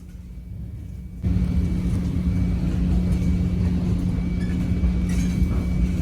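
Commuter train running, a steady low rumble with a constant hum that jumps abruptly much louder about a second in and stays loud.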